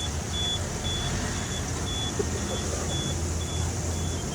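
A heavy machine's engine running with a steady low rumble, while its high-pitched warning beeper sounds about twice a second, like a reversing alarm.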